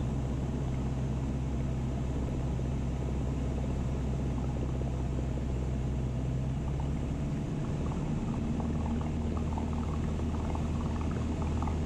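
Cessna 172's four-cylinder piston engine and propeller droning steadily in the cockpit, with carburettor heat on at pattern altitude. The engine note shifts slightly about eight seconds in.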